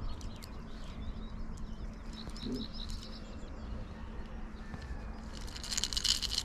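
Small birds chirping a few times in the background over a low steady rumble. About five and a half seconds in there is a brief, louder rustling and scraping from hands working a wobbler out of a pike's mouth over a mesh landing net.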